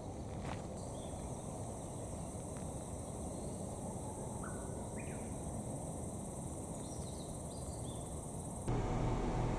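Outdoor ambience of insects giving a steady high drone, with a few brief chirps in the middle. Near the end it cuts to a louder, steady low hum.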